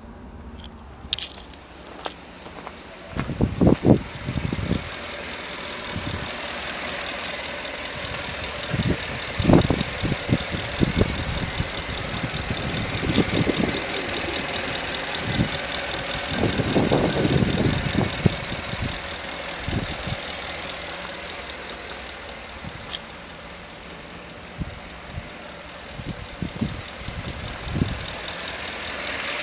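Ford 6.2-litre Boss V8 gasoline engine running at idle.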